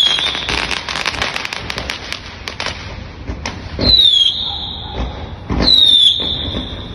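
Fireworks display: dense crackling for the first few seconds, then two loud bangs about four and six seconds in, each followed by a high, slightly falling whistle that holds on.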